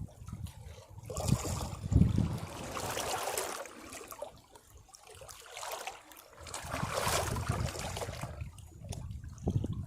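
Sea waves washing against rocks, the water surging in and draining back in two swells, with a low thud as a wave strikes about two seconds in.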